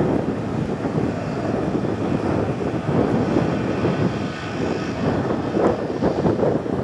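Boeing CH-47 Chinook tandem-rotor helicopter in flight, its rotors and engines making a loud, steady din.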